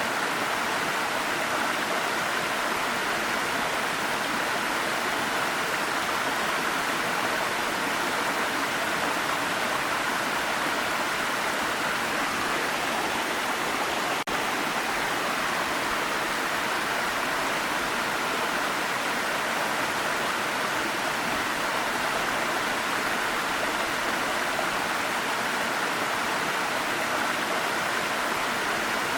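Waterfall running: a steady, even rush of falling water with no breaks, interrupted only by a brief dropout about halfway through.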